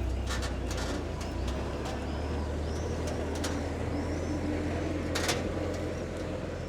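City street ambience: a steady low rumble of traffic, with birds chirping over it again and again and a few sharp clicks.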